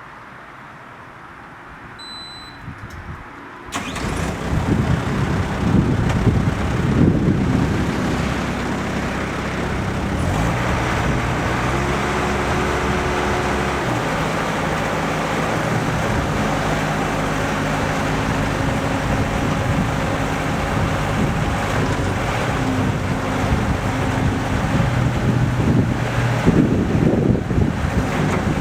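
Bobcat S160 skid steer loader's diesel engine starting, preceded about two seconds in by brief warning beeps. It catches abruptly just before four seconds and keeps running, its pitch shifting as the engine speed changes.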